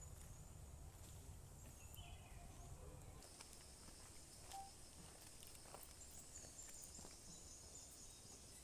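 Faint natural ambience: a steady high-pitched insect drone sets in about three seconds in, over a low rumble, with a few short bird chirps.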